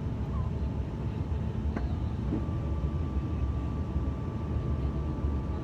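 Steady low engine and airflow rumble inside a regional airliner's passenger cabin. There is a single click a little under two seconds in, and a faint steady whine joins about two and a half seconds in.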